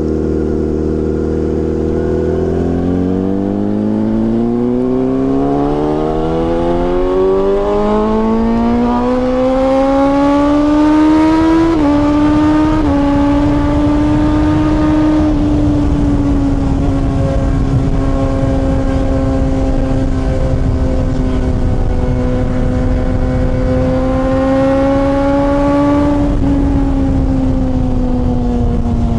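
Honda CBR600RR inline-four with a TOCE exhaust, heard from the moving bike: the engine note climbs steadily for about ten seconds under acceleration, dips at a gear change, then holds fairly steady while cruising, easing off near the end. A steady low rush of wind runs underneath.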